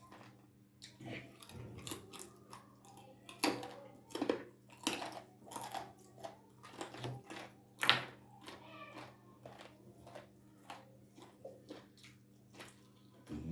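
A person chewing boiled bones and ugali: irregular wet mouth clicks and smacks, the sharpest about eight seconds in.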